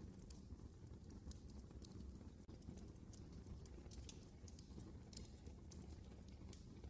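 Fire burning in a fireplace: faint, irregular crackles and pops over a low, steady rumble.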